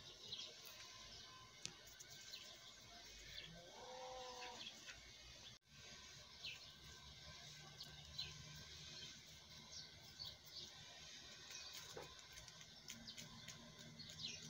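Near silence outdoors with faint, scattered bird chirps and one soft, short call about four seconds in.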